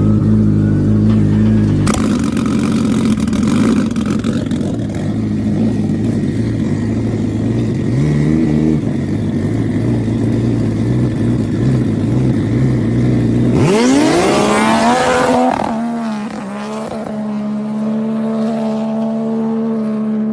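Powerboat engine running loud and steady. About two-thirds of the way in the revs climb, then hold at a steady higher pitch.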